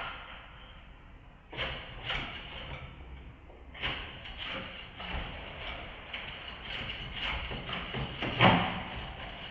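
Irregular knocks, rattles and scrapes of hands working on a split air conditioner's indoor unit, with a louder thud about eight and a half seconds in.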